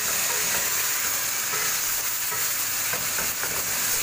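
Chicken pieces sizzling in hot oil and a little water in a kadhai, with a spatula stirring and scraping through them. The sizzle is a steady hiss throughout.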